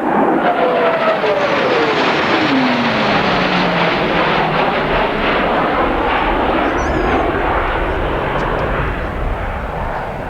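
Jet noise from an F-15C Eagle's twin Pratt & Whitney F100 turbofans as it passes, its whine falling steeply in pitch over the first few seconds. A steady jet roar follows and eases off slightly near the end.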